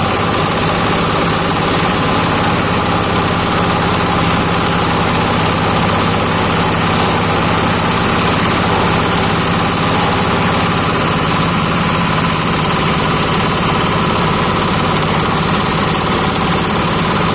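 Fish-waste grinding machine running steadily, a loud continuous mechanical drone from its drive and grinder.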